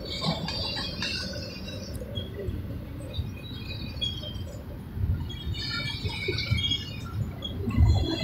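CSX intermodal stack train rolling slowly through a grade crossing: a steady low rumble that swells a couple of times, with many short, high-pitched squeaks scattered at uneven pitches.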